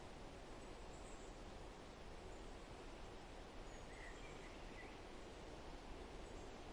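Quiet forest ambience: a steady low rush with a few faint, brief bird chirps, a small group of them about four to five seconds in.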